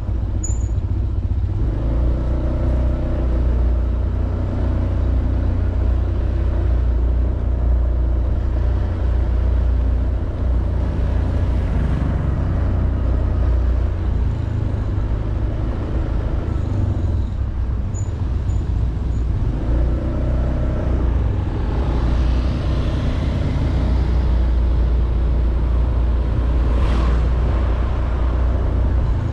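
Honda Beat 110cc scooter's single-cylinder engine running while riding, under heavy wind rumble on the helmet or handlebar camera's microphone.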